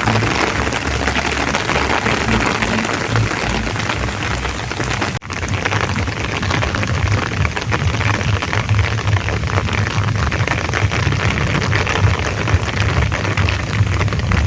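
Rain falling steadily, a dense even patter of drops, breaking off for a moment about five seconds in.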